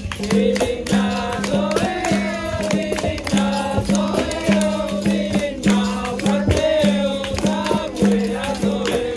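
Capoeira roda music: a single voice sings a song line over a berimbau's repeating twangy note and hand percussion struck in a steady rhythm.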